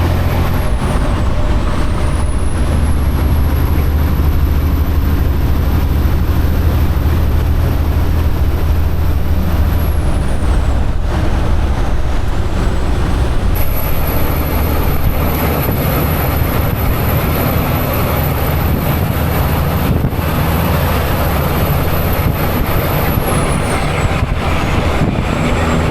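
Semi truck under way: a steady low engine drone with road noise.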